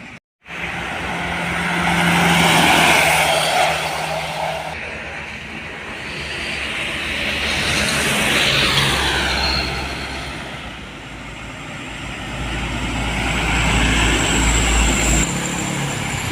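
Road vehicles passing one after another, three pass-bys that each swell and fade, with a low engine hum beneath the noise of their tyres and the last one the deepest.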